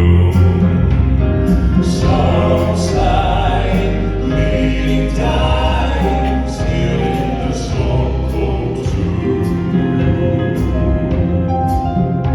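Live gospel music: a male vocal group singing in harmony over band accompaniment, with a strong bass line and regular percussion strikes.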